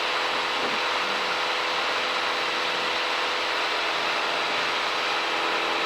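Steady drone of a Piper Cherokee's piston engine and propeller in flight, heard from inside the cockpit, with an even pitch and level throughout.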